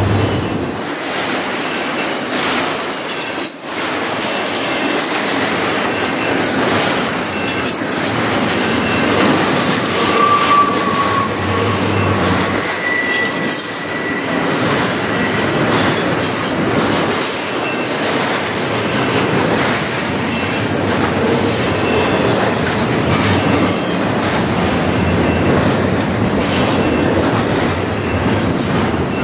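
Double-stack container cars rolling past on steel wheels, a steady rumble and clatter of wheels on the rail joints. A couple of brief, high wheel squeals come in around the middle.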